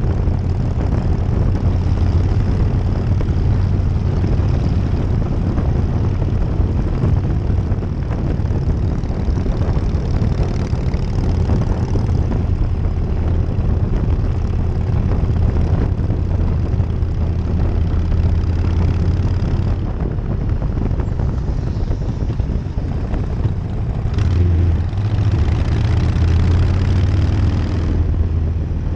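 1999 Harley-Davidson Night Train's V-twin engine running under way, with wind rushing over the microphone. The engine note eases off about two-thirds of the way through, then picks up again a few seconds later.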